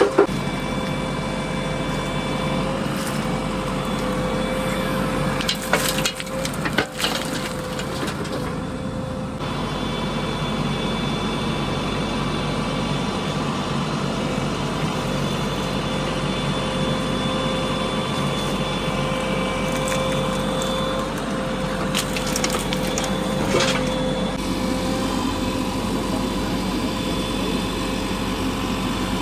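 Backhoe loader's diesel engine running steadily, with a few sharp knocks and clatters about six seconds in and again around 22 to 24 seconds.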